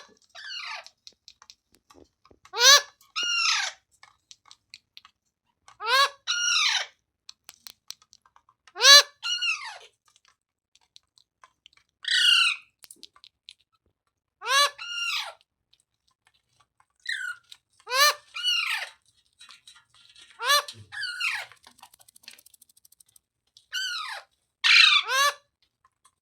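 A green parrot giving short, harsh squawking calls, singly or in quick twos and threes, every two to three seconds.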